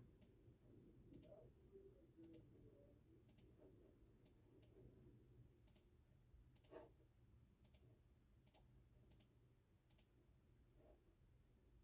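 Near silence: faint room tone with a low hum and soft, irregular clicks about once a second, one a little fuller about two thirds of the way through.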